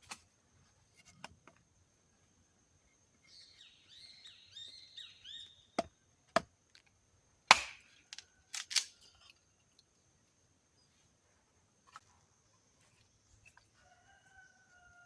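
A few sharp knocks, the loudest about halfway through, with a bird chirping in quick falling notes just before them and a faint steady high tone underneath.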